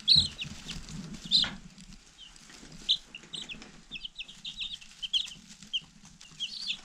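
A brood of two-day-old meat chicks peeping, many short high peeps overlapping steadily. There is some low rustling and knocking in the first second and a half.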